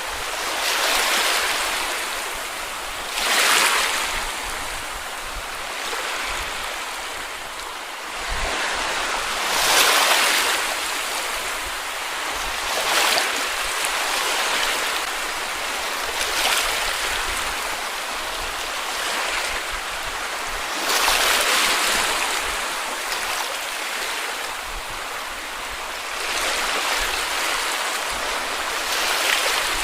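Sea waves washing onto a beach: a steady hiss of surf that swells every few seconds as each wave breaks and runs up.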